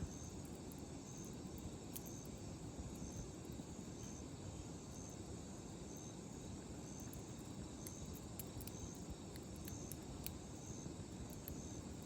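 Wood fire burning in a steel fire pit, with a steady low rush and scattered sharp crackles and pops. A high insect chirp repeats about once a second over it.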